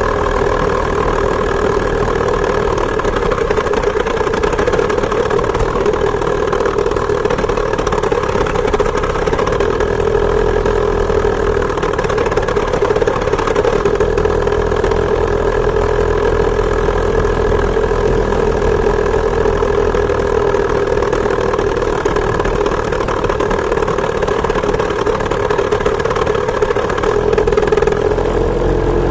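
Two-stroke chainsaw engine of a homemade moped running steadily while riding, its note shifting slightly up and down.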